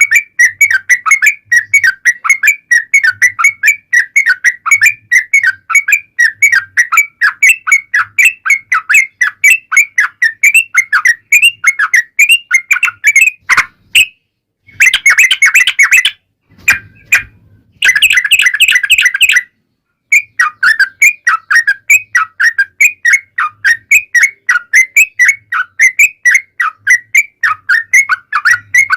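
Yellow-vented bulbul (trucukan) song: a fast, continuous run of short chattering, whistled notes, loud and close. About halfway it breaks for a few short gaps, with two denser bursts of song between them.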